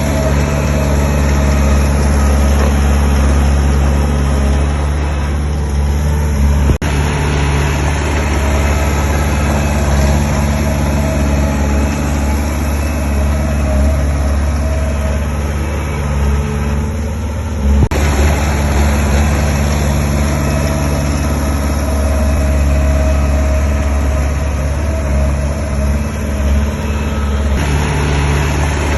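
Heavy diesel engine of earthmoving machinery running steadily at a low, even pitch, with two abrupt breaks where the sound jumps.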